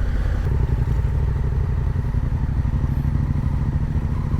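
Parallel-twin adventure motorcycle engine running at low, steady revs while riding off-road, its note stepping up a little about half a second in.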